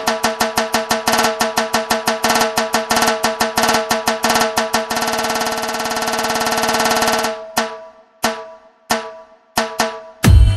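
Drumming: quick even strokes, about six a second, run into a continuous roll that breaks off about seven seconds in, followed by a few single strokes and a heavy low hit near the end.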